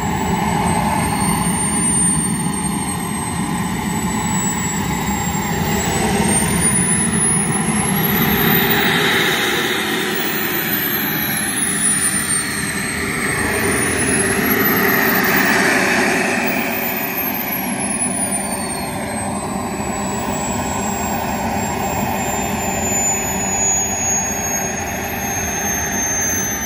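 A radio-controlled model jet's small turbine engine running on the ground, a steady roar under a high whine. The whine rises and falls in pitch, highest around the middle, as the engine is throttled up and back before the fuel line is disconnected.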